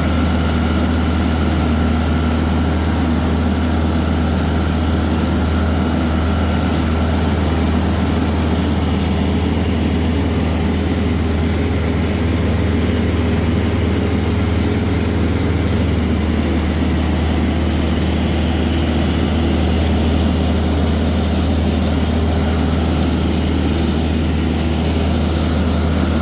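Tractor engine running steadily as the tractor drives along, with a strong, even low drone.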